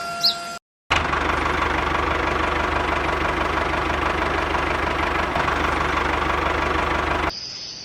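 Small engine running steadily at an even speed, with a strong low rumble. It starts abruptly about a second in and cuts off sharply near the end.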